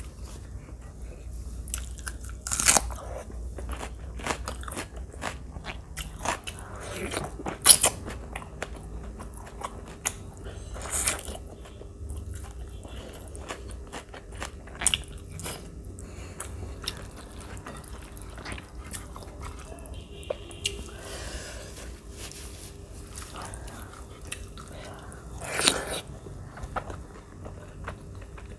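Close-miked eating sounds: a person chewing mouthfuls of rice and chicken curry, with wet mouth noises and several sharp crunching bites, the loudest about 3, 8, 11 and 26 seconds in.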